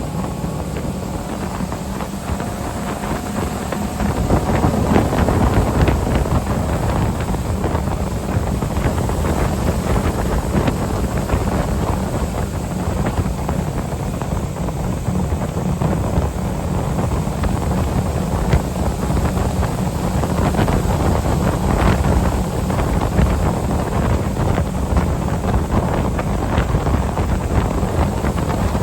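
Wind buffeting the microphone over the steady running of a ski tow boat's engine and the rush of water. The level steps up about four seconds in.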